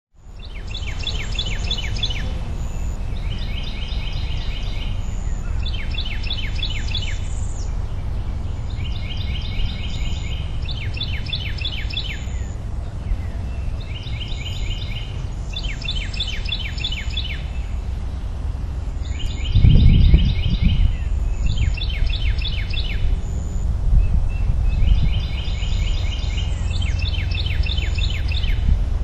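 A songbird singing repeated phrases every couple of seconds, alternating runs of quick down-slurred notes with buzzy trills, over a steady low rumble; the rumble swells briefly about two-thirds of the way through.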